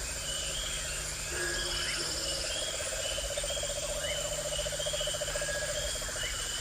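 Outdoor nature ambience: birds calling with short repeated high notes and a few rising chirps, over a fast pulsing trill from a frog or insect.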